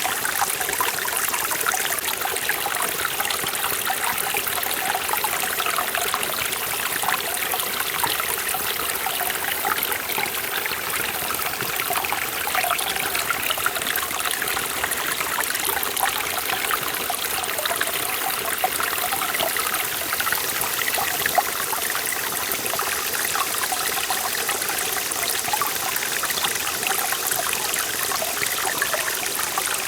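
Forest valley stream running steadily over rocks, a continuous rush and trickle of water with dense small splashes.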